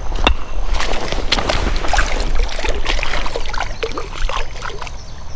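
Creek water splashing and sloshing in many quick irregular splashes, as legs wade through shallow water.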